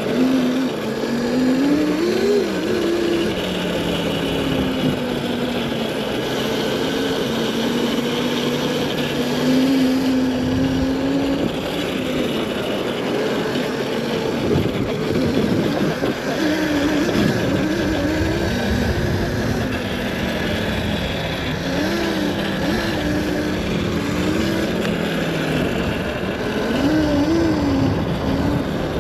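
Dirt bike running over snow and ice, its motor pitch rising and falling as the throttle is worked, over steady wind and tyre noise.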